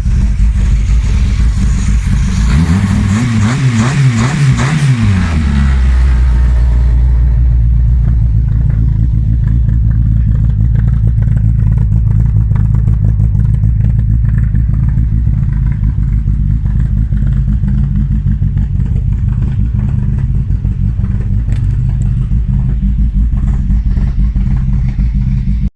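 Car engine running, revved up and back down a few seconds in, then settling into a steady idle; it is running nicely.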